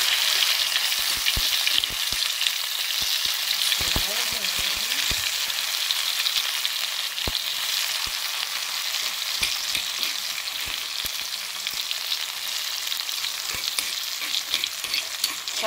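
A coarsely pounded paste of chillies, onion, garlic and dried anchovies sizzling hard in hot oil in a wok, having just gone in. The sizzle eases slowly, with scattered small clicks and pops.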